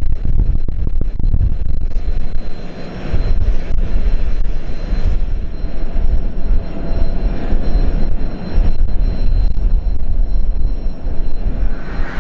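Jet aircraft engines running: a loud, deep rumble that rises and falls, with a thin steady high whine over it.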